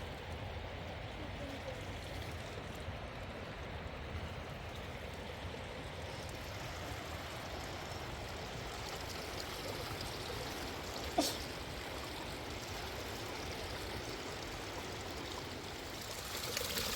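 River water flowing steadily, with a single sharp click about eleven seconds in.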